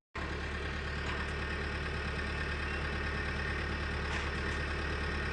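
Steady, unchanging motor hum with a low drone and an even hiss, starting just after a cut.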